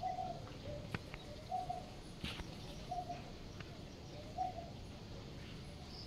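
A bird cooing: a short, low note repeated about every second and a half, with a couple of sharp clicks in between.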